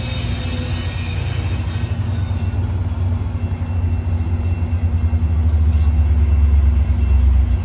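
Metra bilevel commuter train rolling past along the rails, a low rumble with a steady hum that grows louder over the last few seconds.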